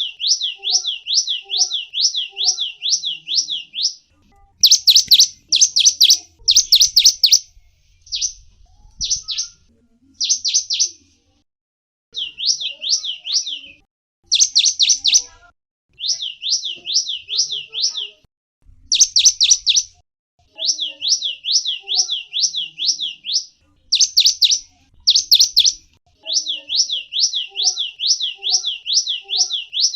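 A small songbird calling, the Gelatik Wingko: fast runs of high, sliding chirps, about four or five a second, broken by short pauses, with a few louder, harsher notes in between.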